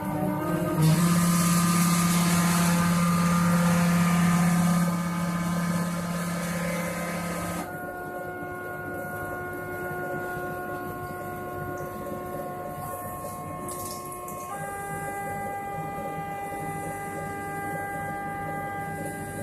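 Stepper-motor drives of a hot-wire CNC foam cutter whining steadily as the machine moves through a cut. The whine jumps to a new pitch about a second in, again near the middle and once more about three-quarters through. A louder hum and hiss sit under it until just before the middle.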